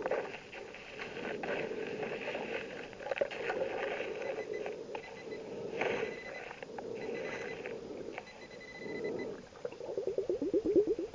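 Scuba diver breathing through a regulator underwater: hissing inhalations come and go, and near the end exhaled bubbles rise in a rapid gurgling run.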